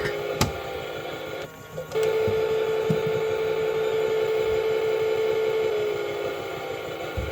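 A toy washing machine's small electric motor running with a steady whine, with a click just after the start. The motor stops for about half a second about a second and a half in, then starts up again, and drops slightly in pitch near the end.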